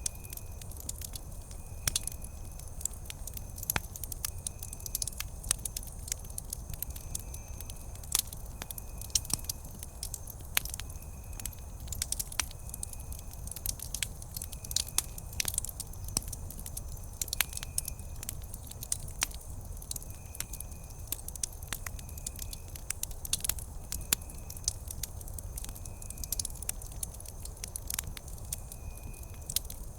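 Wood campfire crackling, with frequent sharp irregular pops and snaps over a low, steady rumble of burning.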